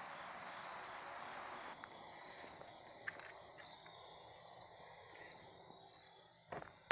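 Faint outdoor ambience: insects trilling steadily under a steady hiss that drops a little about two seconds in, with a few light clicks and a soft knock near the end.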